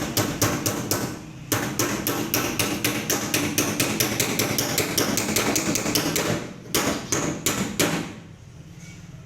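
Hammer blows on a tin oil can: rapid strikes, several a second, with a short break about a second and a half in, then a few last separate blows before stopping about eight seconds in.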